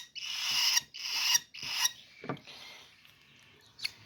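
Baby cockatiels' raspy, hissing food-begging calls: three swelling rasps in the first two seconds, then much quieter, with one short sharp call.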